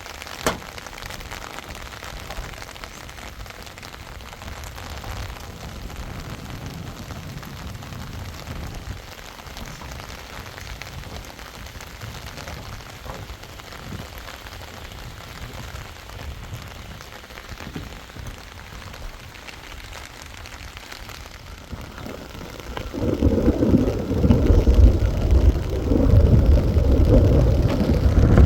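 Steady rain falling, with one sharp tap just after the start. About 23 seconds in, a much louder low rumbling noise takes over.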